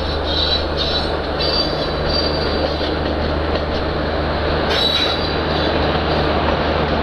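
Express train of LHB coaches rolling past with a steady rumble, its wheels squealing in short high-pitched screeches during the first few seconds and again about five seconds in.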